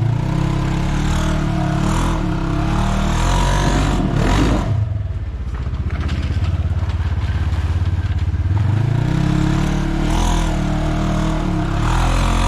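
Off-road vehicle engine running under load, revving up and easing off as it climbs the trail, with a short burst of noise about four seconds in and the revs rising again near the end.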